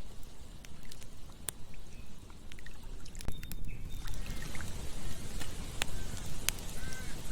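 Campfire crackling with scattered sharp pops, over the steady rush of flowing river water; a few short high chirps are heard in the second half.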